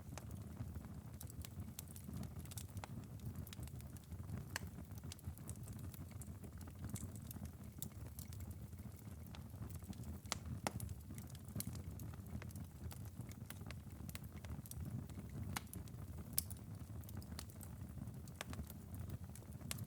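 Glowing ember bed of a wood-burning fireplace late in a long burn: a low steady rumble with sharp crackles and pops at irregular intervals.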